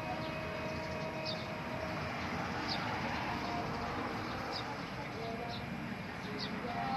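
A bird's short high chirps, repeated about once a second, over a steady hiss of background noise.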